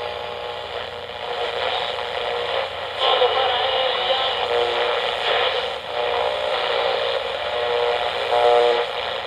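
Train sound effect on an old radio broadcast: a locomotive running steadily, with pitched tones coming and going and a louder passage starting about three seconds in, heard through the narrow, muffled sound of a 1949 recording.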